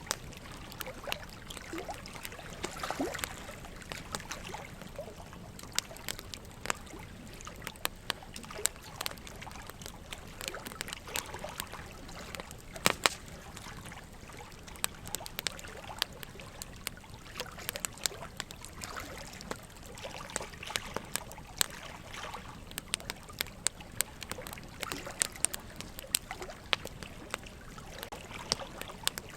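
Burning logs in a fireplace crackling with frequent, irregular sharp pops, the loudest about thirteen seconds in, over a steady trickle of running water.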